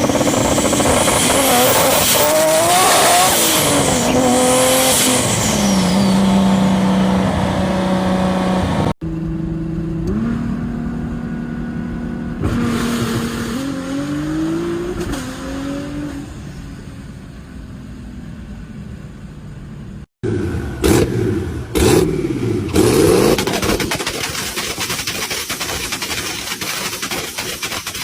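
Turbocharged race car engines on anti-lag, in three short clips: engines revving hard with pitch rising and falling, then several sharp exhaust bangs in the last clip.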